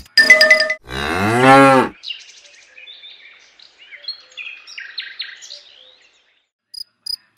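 A cow moos once, one long call about a second in that rises and falls in pitch, followed by faint bird chirps.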